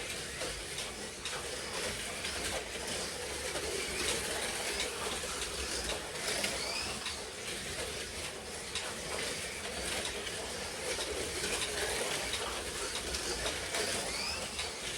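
Slot cars racing around a track: small electric motors whining and rising in pitch as the cars accelerate out of the corners every few seconds, over a steady rumble and clatter of the cars running on the track.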